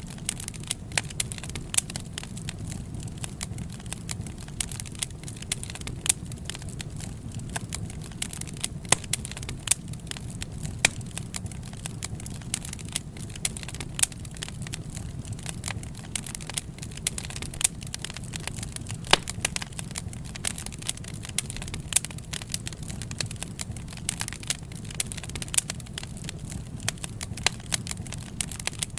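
Wood fire crackling: frequent sharp pops and snaps, scattered unevenly, over a steady low rumble.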